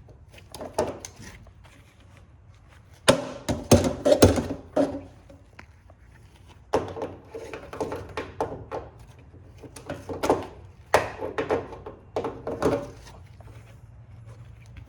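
Irregular knocks and clunks of machine parts and tools being handled during disassembly, coming in clusters with short pauses between.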